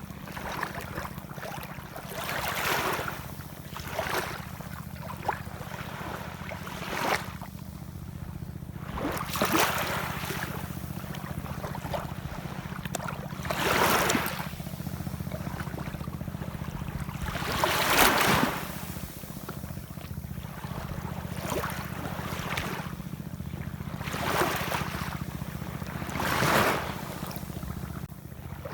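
Ocean waves washing in, surges of surf noise swelling and fading every few seconds over a steady low rumble, with the two biggest waves about halfway through.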